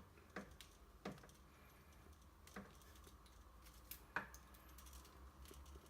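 Quiet handling noise: a few light clicks and taps, spaced a second or more apart, over a low steady hum.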